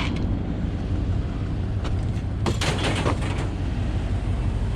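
Pickup truck engine running with a steady low hum, and a short run of clanks and knocks about two and a half seconds in.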